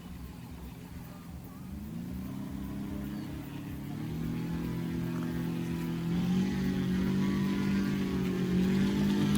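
An aircraft engine speeding up in steps, its hum rising in pitch about two, four and six seconds in and growing louder as it is throttled up.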